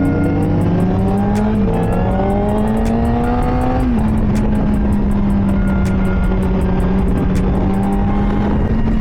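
Honda CBR600RR's inline-four engine pulling up through the gears, its pitch rising and dropping sharply with an upshift about a second and a half in and again about four seconds in, then running at a steady pitch.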